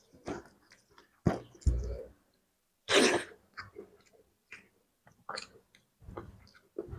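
Eating sounds of a person chewing spicy fish curry, in irregular short bursts, with one louder, sharper burst about three seconds in.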